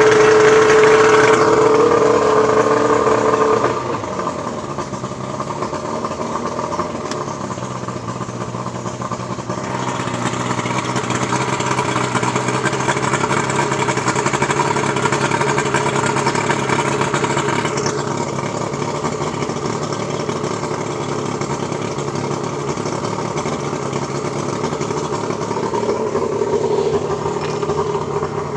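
Early-1990s Yamaha 115 two-stroke V4 outboard running on its first start after a new CDI power pack, wire harness and key switch. It runs fast at first, drops to a lower, steady speed about three and a half seconds in, and holds there with small changes in speed.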